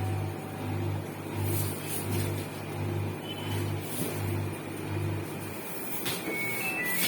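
Samsung WW70T4020CX front-loading washing machine running, its drum motor humming low and swelling about twice a second, until the hum stops a little after five seconds in. A few short electronic beeps at different pitches follow near the end.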